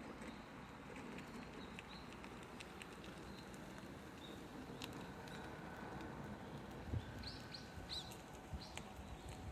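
Small birds chirping in short, scattered calls, more often in the last few seconds, over a steady low rush of wind. A soft low thump sounds about seven seconds in.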